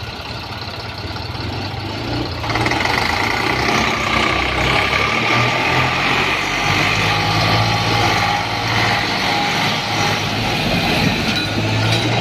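Tractor engine running, getting louder about two and a half seconds in and then holding steady.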